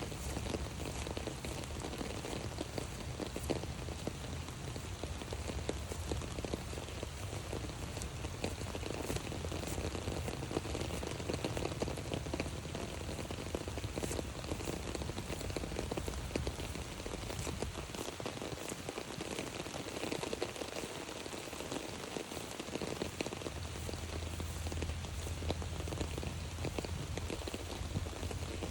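Steady rain pattering on an umbrella overhead, a dense run of small drop taps, with a low rumble underneath that drops away for a few seconds past the middle.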